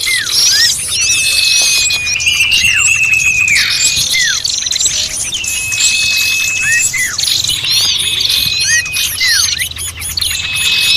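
Bird-lure recording of many small birds calling at once in a noisy commotion: overlapping chirps, fast twitters and long level whistled notes, with no pause.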